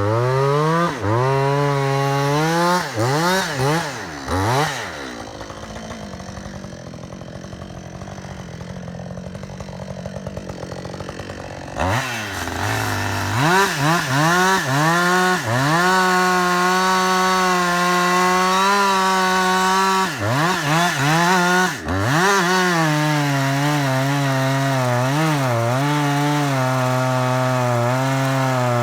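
Gas chainsaw making the felling cuts in the trunk of a large tree: running at high revs with the pitch sagging and recovering as the bar bites, dropping to a quieter, lower stretch about five seconds in, then back at full throttle from about twelve seconds, with a few brief dips near twenty seconds.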